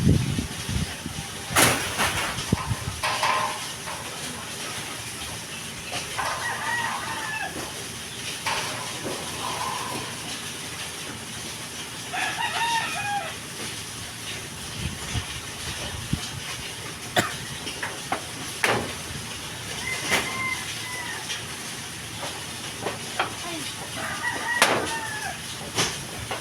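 Chickens clucking and calling in short bursts several times, with a few sharp knocks in between over a steady hiss.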